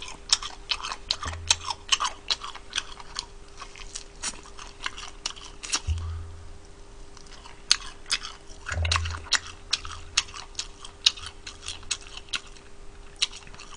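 Close-miked chewing of crispy fried chicken: a run of irregular crunchy clicks, several a second, over a faint steady hum.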